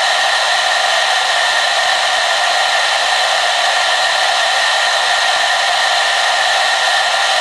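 Hair dryer blowing continuously at a steady speed, an even rushing whoosh with a faint whine from its motor and fan.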